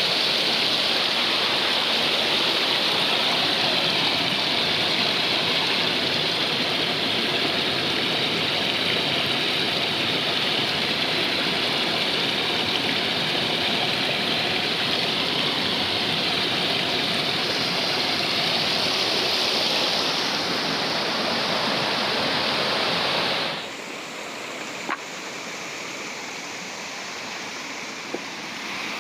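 Steady rushing of flowing water. About three-quarters of the way through it drops abruptly to a quieter, duller rush, with a couple of faint clicks after.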